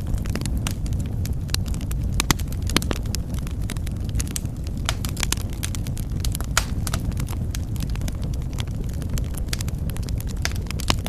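Wood fire crackling in a fireplace: a steady low rumble of burning with frequent irregular sharp pops and snaps.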